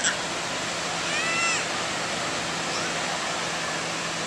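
Steady wash of ocean surf on a beach, with a short high call about a second in.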